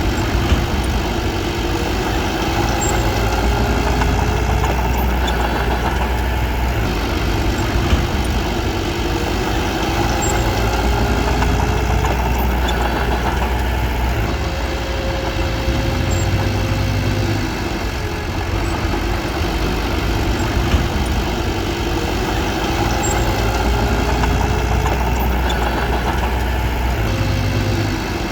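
Diesel engine of a small crawler bulldozer running, its note and level rising and falling every few seconds as it works, with a few sharp clanks.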